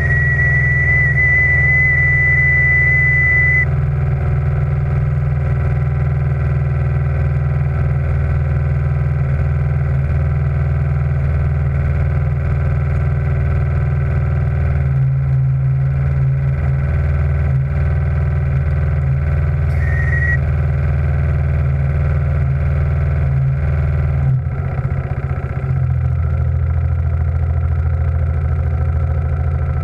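Steady running of a steam launch's engine and gas-fired boiler plant, a low continuous mechanical hum whose note shifts a couple of times as the revs change. A thin high whistling tone sounds for the first few seconds and again briefly about two-thirds of the way through.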